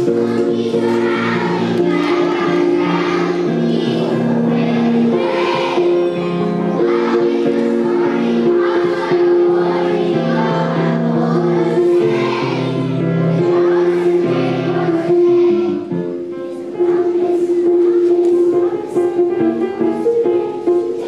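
A choir of young children singing a song over instrumental accompaniment, with a brief dip about 16 seconds in.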